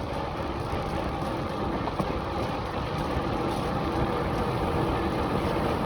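Steady rushing noise of a bicycle being ridden along a rough path, with tyre rumble and wind on the microphone.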